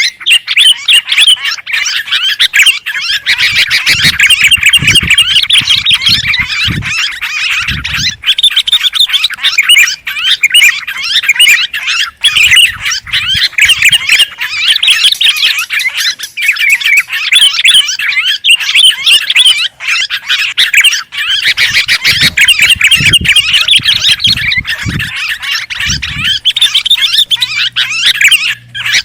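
Continuous, agitated chattering and squawking of sooty-headed bulbuls and yellow-vented bulbuls, many fast overlapping calls with no pause. A bird-lure recording of noisy, excited bulbuls used to draw in other birds.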